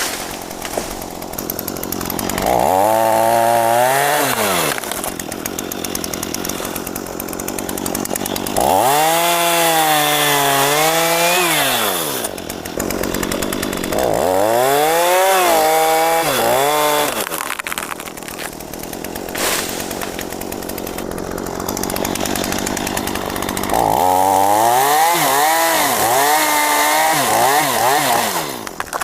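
Two-stroke chainsaw cutting mahogany, revved hard four times for a few seconds each, its pitch rising and then sagging under load in each burst. It drops back to a lower running note between cuts.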